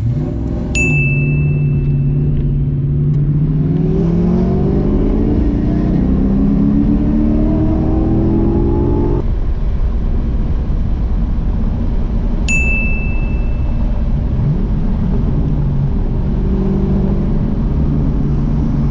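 Car engine accelerating hard: its pitch climbs steadily for about eight seconds, then drops suddenly as if on a gear change, and the engine pulls on at a steadier note. Two short high dings sound over it, one near the start and one about halfway through.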